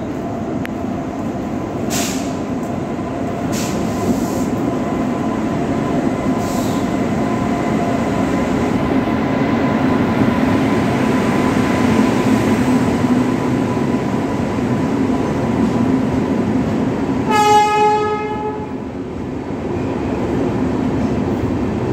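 Passenger train hauled by a WAP-7 electric locomotive rolling past along a station platform, with a steady rumble of wheels on rail, a faint steady whine and a few clicks in the first few seconds. About three-quarters of the way through, a train horn sounds once for a little over a second.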